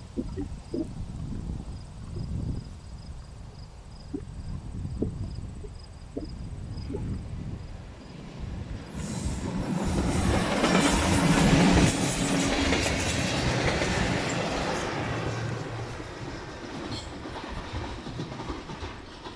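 Train passing on the track: a low rumble with scattered clicks of wheels over rail joints, then a louder rush of wheel and rail noise that builds about nine seconds in, peaks, and slowly fades away.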